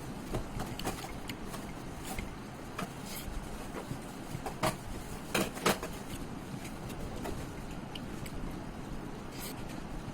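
Close-up eating sounds of a person eating chicken liver curry with rice: scattered wet mouth clicks and chewing smacks, a few louder ones about halfway through, over a steady low background rumble.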